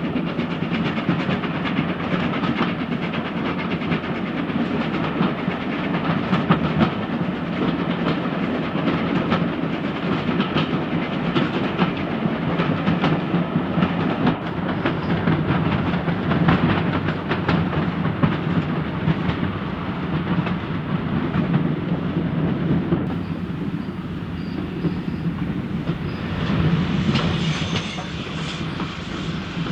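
Steam-hauled train running along the track: a steady rumble with wheels clattering over the rail joints.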